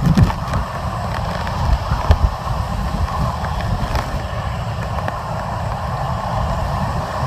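Hurricane-force wind rushing steadily and buffeting the microphone with a heavy low rumble, with a few brief knocks.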